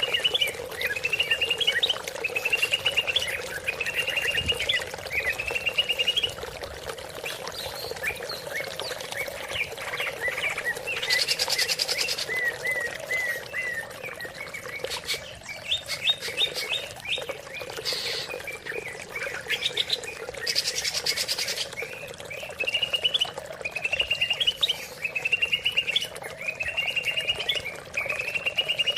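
Green leafbird (cucak ijo) singing: short rising whistled phrases repeated about every second and a half, with a run of quicker chattering notes in the middle, over a steady background of running water.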